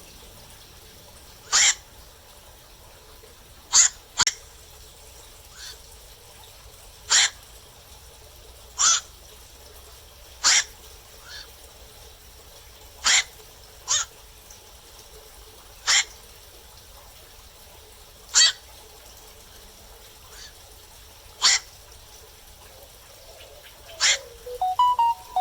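Black-crowned night heron giving single short, harsh calls, one every one to three seconds, about a dozen in all, with a quicker cluster of calls near the end.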